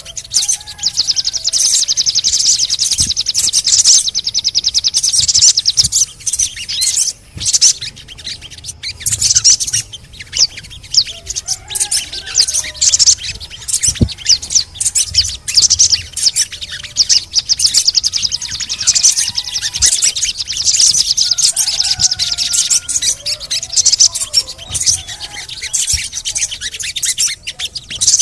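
Sogon bird song: long runs of rapid, high-pitched chattering trills that break off briefly and start again, with some lower whistled notes between them.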